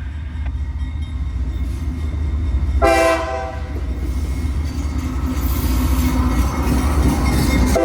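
Passing train: a steady low locomotive rumble with rising wheel and rail noise, and two short horn toots, one about three seconds in and another right at the end.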